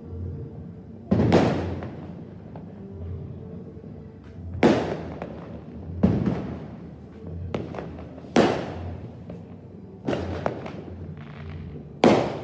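Fireworks going off: six loud bangs, a second or two apart, each trailing off in a rolling echo, with fainter pops and crackles between them.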